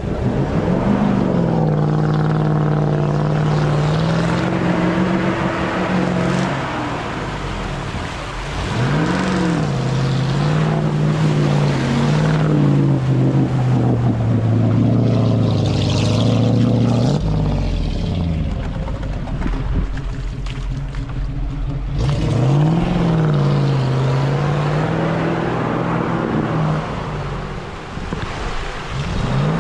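Off-road vehicle engine running under load, revving up sharply and settling back to a steady drone about four times.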